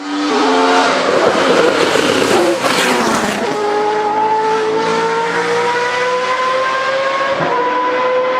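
4-litre Judd V8 racing engine in Georg Plasa's BMW E82 134, running at high revs. For the first three seconds or so a loud rushing noise rides over it. Then the engine note climbs slowly and steadily as the car pulls hard in one gear.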